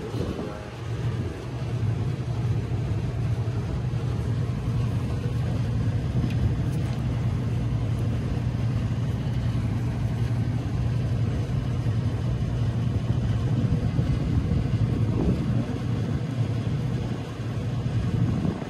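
Steady low mechanical hum of running rooftop HVAC condensing equipment, an even drone with no breaks or changes.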